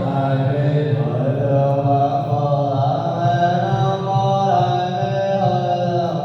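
Vietnamese Buddhist chanting: many voices chanting together in long, held tones over a steady low drone, the pitch shifting every second or so.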